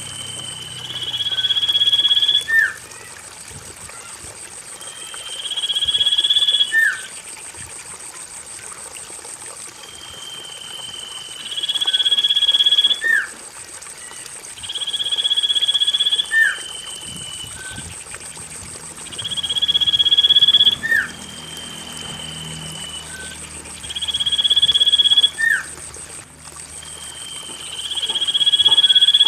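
Common iora (cipoh) song used as a lure, a long drawn-out whistled note about every four seconds, each ending in a sharp upward flick. A steady very high buzz runs behind and drops out for a while in the middle.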